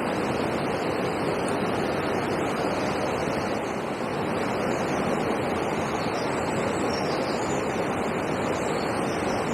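Steady rushing of flowing river water, an even, unbroken wash of noise.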